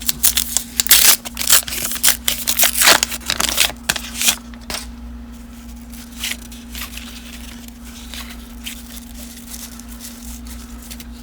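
Baseball trading cards and pack wrappers being handled and sorted: a busy run of rustling, crinkling and card snaps for the first few seconds, then only occasional quiet rustles. A steady low electrical hum runs underneath.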